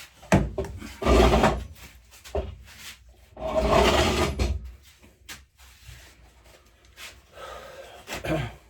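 Parts and tools being handled and moved about on a workbench: sharp knocks and clicks, with two longer rubbing, scraping passes about a second in and about four seconds in.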